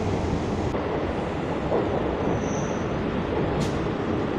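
Suburban electric local train (EMU) running at speed, heard from a window seat inside the coach: a steady rumble and rattle of wheels on rails, with a short sharp click about three and a half seconds in.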